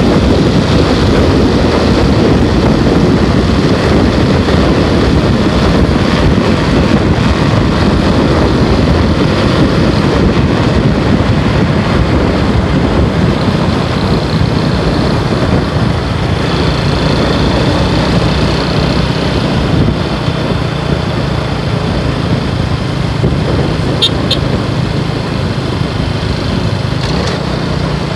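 Motorcycle engine running steadily while the bike is ridden, with road and wind rush. About twenty seconds in it drops a little in level.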